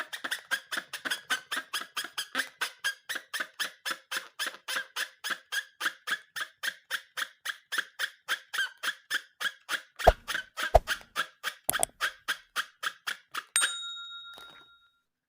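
Rubber balloon squeaking in a fast, very regular run of short squeaks, about five a second. A few dull thumps come near the end, then a short ringing tone.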